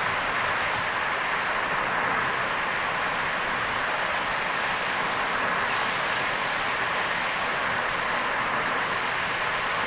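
Car driving through heavy rain: a steady rush of rain and tyres on a wet road.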